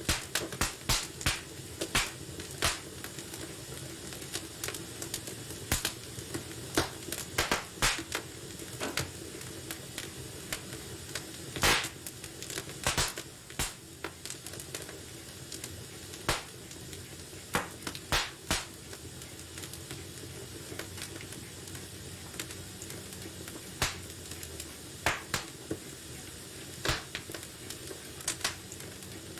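Wood fire burning in a fireplace: a steady soft hiss with irregular sharp crackles and pops, coming in quick clusters and thinning out toward the middle and later on.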